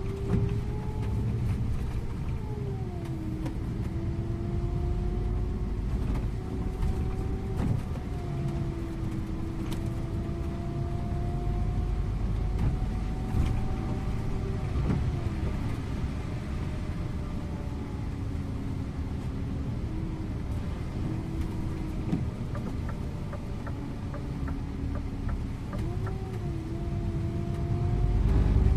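Scania InterLink coach driving, heard from the driver's seat: a steady rumble of engine and road with a humming whine whose pitch rises and falls with speed, dipping a few times.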